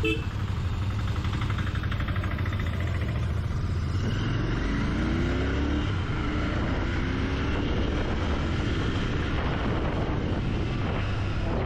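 Royal Enfield Continental GT 650's 648 cc parallel-twin engine running on the move, its pitch rising a few times midway as the bike accelerates.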